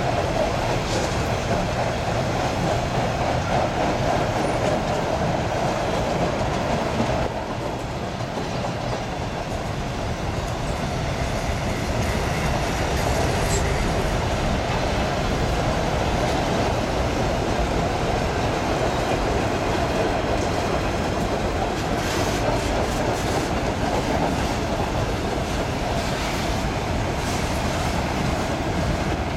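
A train running on the rails: a steady rolling noise of wheels on track, with bursts of clickety-clack over rail joints later on.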